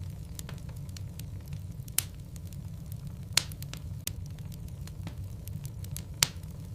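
Logs burning in a fireplace, crackling with many small clicks and three louder sharp pops, about two, three and a half and six seconds in, over a steady low rumble.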